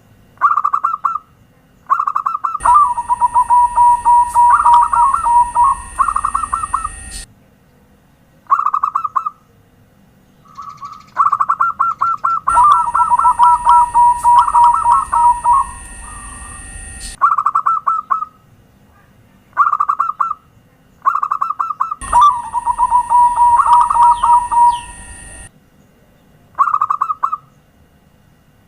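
Zebra dove (perkutut) cooing song: phrases of rapid staccato coos, some short and some running several seconds, with short gaps between them. A steady hiss runs under the three longest phrases.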